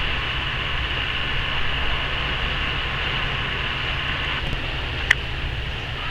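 Wind buffeting the camera microphone as a flickering low rumble over a steady hiss, with one sharp click about five seconds in.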